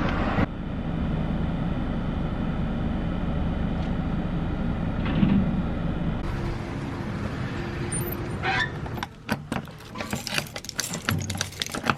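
Steady engine-like hum, as of a vehicle running, then a scatter of clicks and knocks in the last few seconds.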